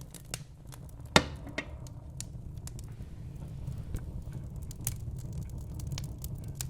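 Wood fire burning in a fireplace: a steady low rumble of the flames with scattered crackles and pops, one sharp pop about a second in.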